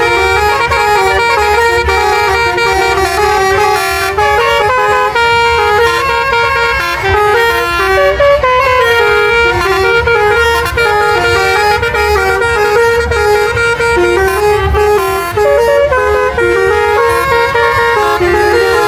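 Basuri musical truck horn playing a melody, loud and continuous, its notes stepping up and down without a break.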